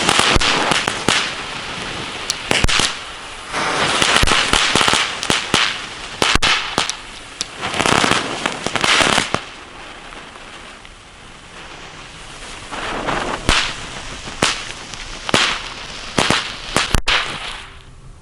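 Small category 1 youth fireworks going off: several bursts of hissing and crackling, with sharp cracks scattered through.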